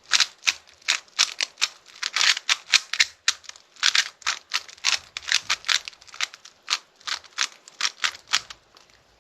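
Speed cube being turned quickly by hand: a fast, irregular run of sharp plastic clicks and clacks from the layers snapping round, stopping shortly before the end.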